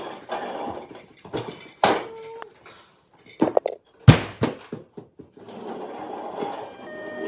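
Small hard toy trash items clattering and knocking as they are tipped out and handled: a handful of sharp knocks, one ringing briefly about two seconds in, and the loudest thump about four seconds in.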